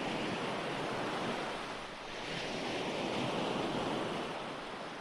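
Recorded ocean waves washing onto a shore, a steady hiss of surf that rises and falls twice as the waves come in and draw back.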